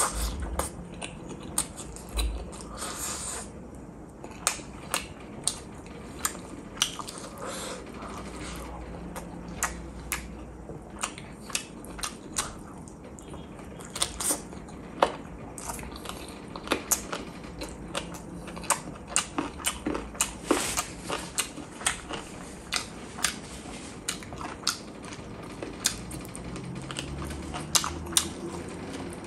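Chewing and biting meat off a chicken drumstick in gravy, with many short, sharp mouth clicks and crunches a few times a second.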